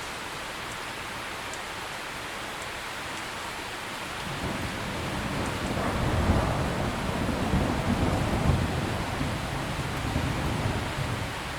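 Steady heavy rain, with a low rolling rumble of thunder that builds about four seconds in, peaks midway and dies away near the end.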